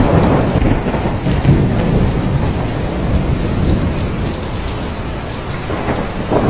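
Thunderstorm: heavy rain falling steadily under low, rolling thunder that swells near the start and again near the end.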